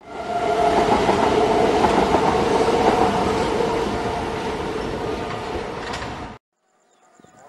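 Train sound under an animated intro logo: a train running past with loud, dense noise and steady tones. It eases slightly and is cut off abruptly about six seconds in.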